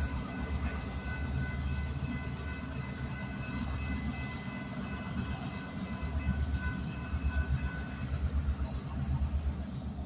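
A railroad switcher locomotive and its cars rumbling past, with a steady high-pitched squeal that stops near the end.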